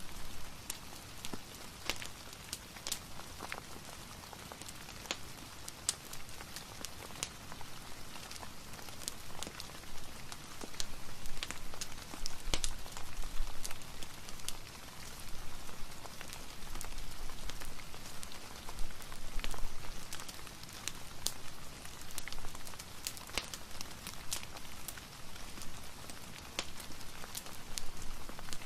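Steady rain ambience mixed with a fireplace, an even hiss broken by many irregular sharp crackles and drop clicks.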